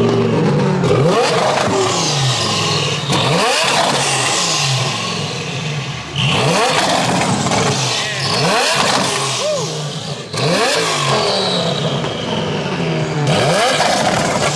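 Lamborghini engine being revved hard over and over, its pitch rising and falling in a blip every one to two seconds.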